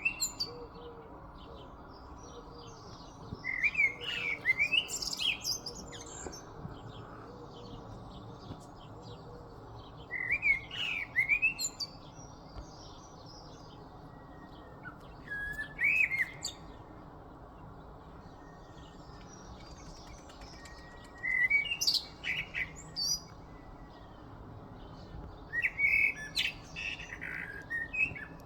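A songbird giving about five bouts of loud, quick, chirping and whistled phrases with pauses of a few seconds between them, phrases likened to a car alarm. Steady background noise runs underneath.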